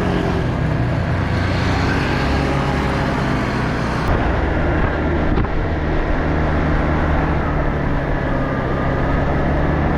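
Small motorbike engine running at a steady speed while riding, with wind rushing over the microphone.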